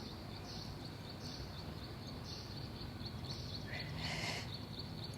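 Background birdsong: a high call repeating about once a second over a fast, steady high chirring. A brief hiss comes about four seconds in.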